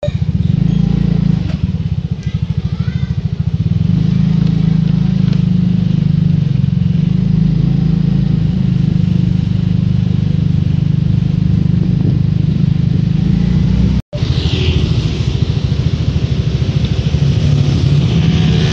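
Wood chipper's engine running steadily with a fast firing rhythm. It cuts out for a split second about 14 seconds in, then carries on.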